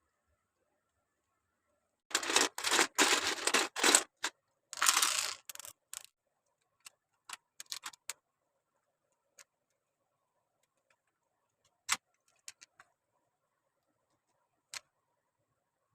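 Loose plastic Lego pieces rattling and clinking together for a few seconds, then scattered single clicks as parts are handled and fitted.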